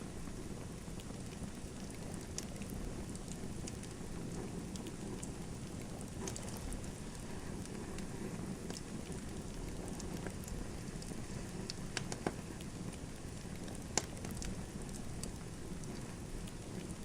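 Wood fire in a fireplace burning, a steady low rumble of flames with scattered small crackles. There are two sharper pops, at about twelve and fourteen seconds in.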